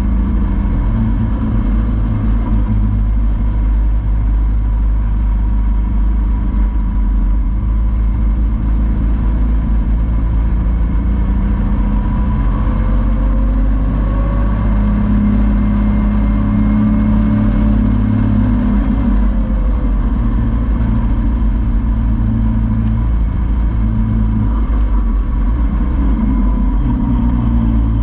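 Caterham Seven's engine running as the car is driven, heard from the open cockpit. The engine note climbs slowly and then falls back again around the middle.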